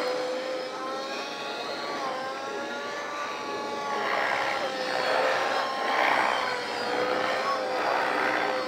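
Radio-controlled helicopter flying 3D aerobatics. A steady high whine from its drivetrain and rotor wavers slightly in pitch, and rushes of rotor noise come about four and six seconds in.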